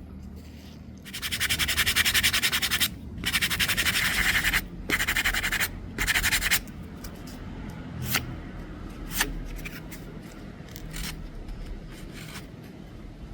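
Abrasive scratching on a wooden axe handle, typical of sanding or rasping the Siamese rosewood: four strokes of a second or two each, then a few sharp taps.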